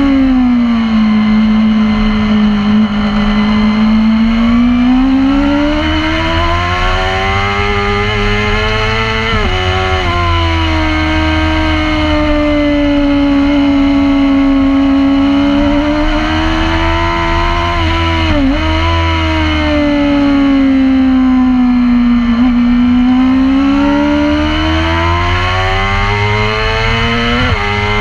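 Supersport racing motorcycle engine, heard onboard, its pitch sweeping slowly down and up as the bike runs through long corners. Its note breaks briefly three times, about a third of the way in, two-thirds in and near the end, as gear changes.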